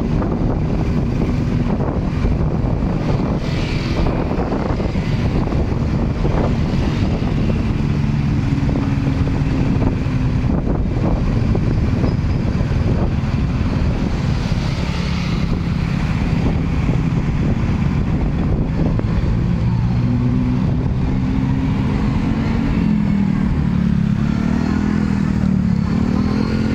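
Motorcycle engines running amid steady street traffic noise, with an engine's pitch rising near the end.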